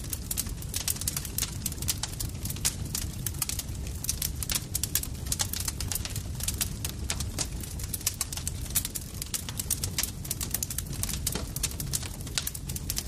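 Campfire crackling: dense, irregular pops and snaps over a steady low rumble of burning wood.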